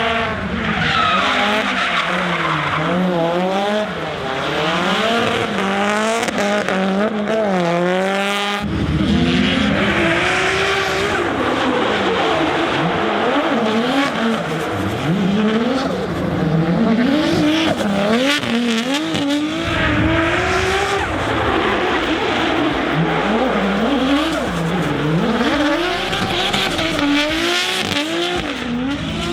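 Drift car engines revving hard up and down while the tyres squeal and skid, the engine pitch rising and falling every second or so. The sound changes abruptly about eight and a half seconds in.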